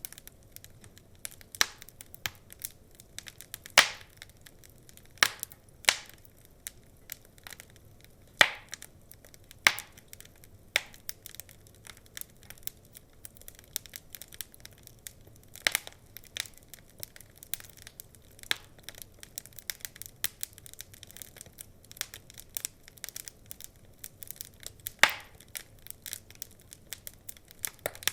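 Wood fire crackling: irregular sharp pops and snaps of varied loudness, several louder cracks standing out, over a faint low hiss of burning.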